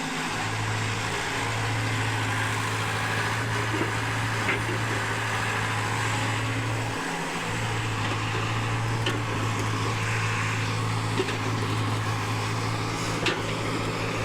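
Heavy diesel engine running steadily with a low hum that dips briefly about seven seconds in, with a few short sharp knocks scattered through.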